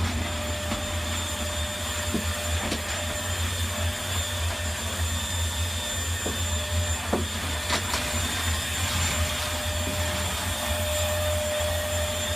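Vacuum cleaner running steadily with a low hum and a thin steady whine, with a few light knocks scattered through.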